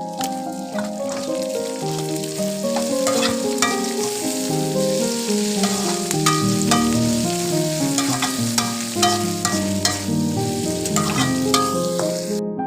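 Food sizzling as it fries in hot oil in a pan, with the clicks and scrapes of a spatula stirring it. The sizzle cuts off suddenly near the end. Instrumental background music plays underneath.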